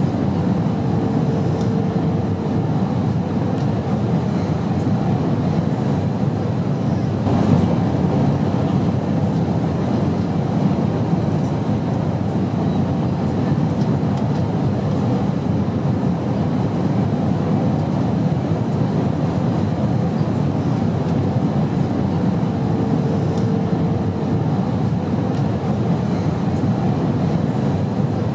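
Airplane cabin noise: a steady, even rumble of engines and rushing air heard from inside the cabin. A faint short tone sounds twice, and there is a light click about seven and a half seconds in.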